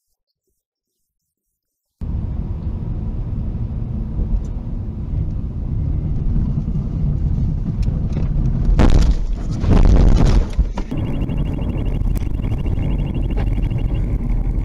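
A car's engine and road rumble heard inside the cabin, starting suddenly after about two seconds of silence. Near the middle there is a loud rushing noise lasting about two seconds. After it, a faint, rapidly pulsing high tone runs over the rumble.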